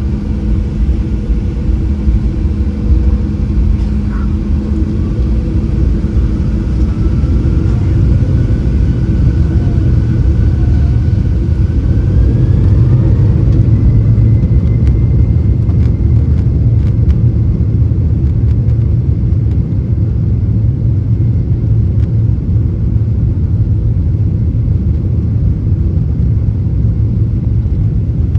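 Cabin sound of a Boeing 737-800's CFM56-7B turbofan engines spooling up: a whine rises in pitch and then holds steady over a loud, constant low rumble, as the engines come up to takeoff thrust for the takeoff roll.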